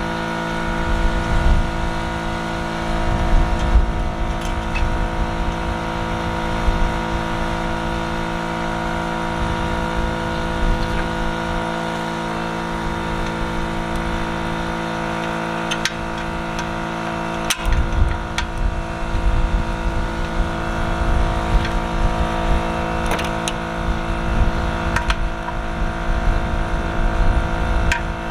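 An engine running at a steady speed, with a gusty rumble of wind on the microphone and a few sharp clicks.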